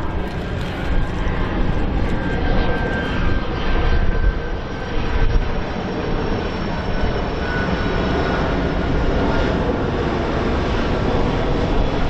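Boeing 767-300ER airliner's twin jet engines running: a steady rumble with a faint high whine above it that drifts slightly down in pitch.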